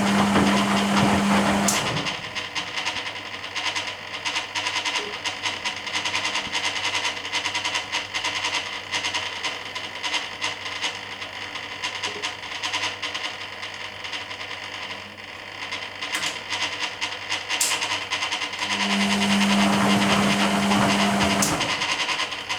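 Hoover Keymatic A3112 washing machine in its rinse, heard from inside the drum: water and washload churning as the drum turns. A loud motor hum comes in briefly at the start and again for a few seconds near the end, and a few sharp clicks fall in between.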